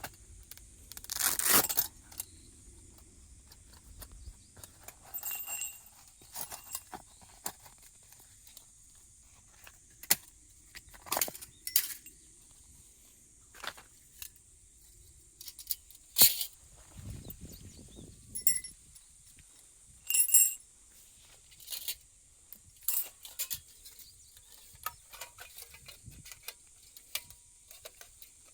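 Camping gear being handled at close range: scattered clicks, light metallic clinks and rustles, over a faint steady high hiss.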